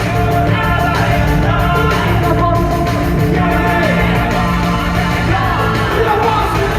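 Live rock song played by a band, with a singer's voice carried loud over the instruments.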